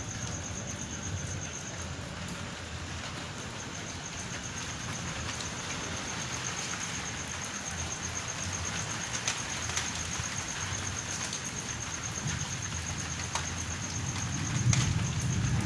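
Steady rain falling, a continuous hiss with scattered sharp drip clicks. A low rumble swells near the end.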